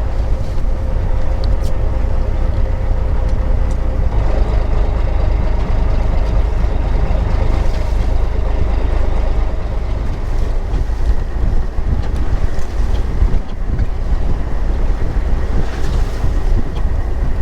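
Boat engine running steadily, a deep rumble with wind buffeting the microphone.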